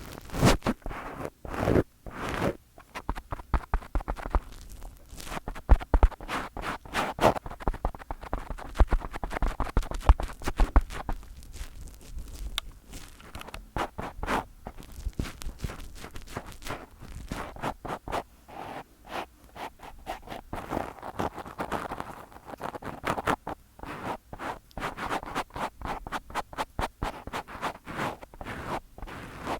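Fingers rubbing, scratching and tapping directly on a microphone: dense, irregular scratchy rubs and soft thumps.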